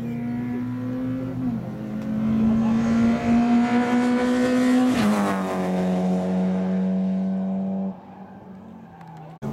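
Alfa Romeo 145 Cup's engine running at steady high revs as the car approaches on track. It passes close by about five seconds in, with a drop in pitch, then is much fainter from about eight seconds in.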